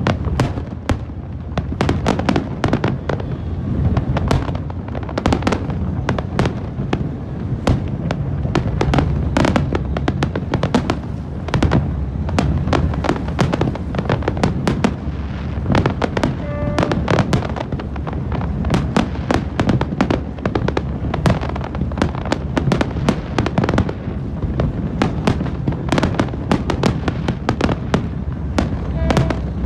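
Fireworks display firing in rapid succession: a dense, continuous barrage of sharp bangs and crackles over a steady low rumble of booms.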